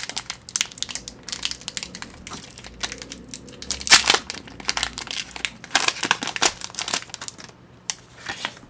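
Foil wrapper of a Pokémon TCG booster pack crinkling as it is torn open and handled, in irregular rustles with a sharp, louder crackle about four seconds in.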